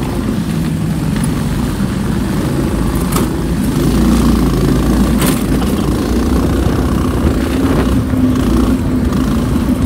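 Car engine running steadily as the car drives, a continuous low hum with road noise.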